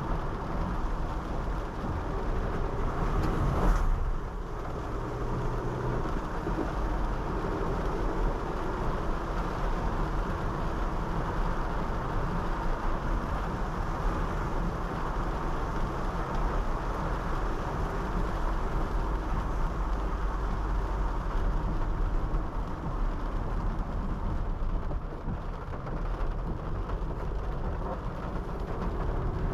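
Honda City sedan driving on a wet road: steady road and tyre noise with a deep engine rumble. There is a brief louder swell about four seconds in.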